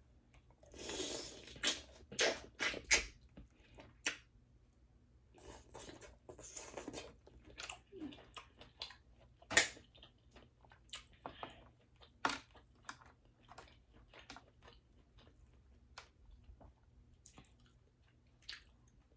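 Close-miked eating of boiled crawfish and mussels: wet chewing and smacking, broken by many sharp shell cracks and clicks. There are two longer squishy stretches, about a second in and around six to seven seconds, and the loudest crack comes about nine and a half seconds in.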